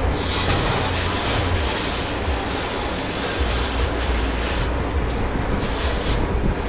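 Water spraying and rushing in a commercial dish pit, over a steady low rumble. The spray cuts off about two-thirds of the way in and comes back in a short burst near the end.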